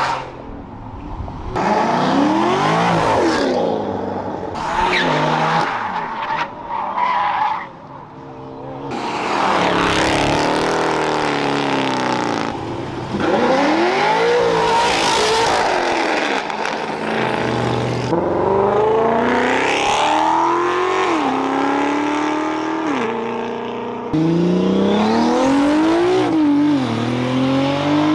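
Performance car engines revving hard and accelerating away, with tire squeal. In the second half the engine pitch climbs and drops back several times as the car shifts up through the gears.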